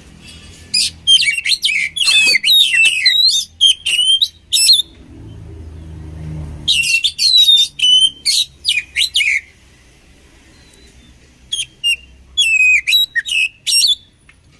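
Oriental magpie-robin (kacer) singing in three bursts of rapid, high whistles and warbles, with short pauses between them.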